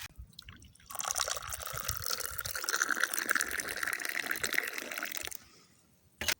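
Tea poured from a teapot into a glass for about four seconds, its pitch rising steadily as the glass fills. A short click comes near the end.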